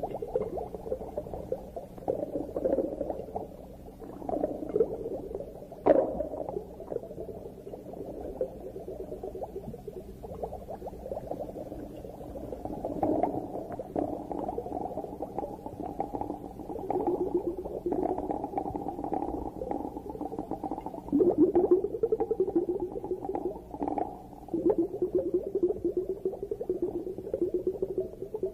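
Muffled underwater bubbling and crackling, swelling louder in stretches, with one sharp click about six seconds in.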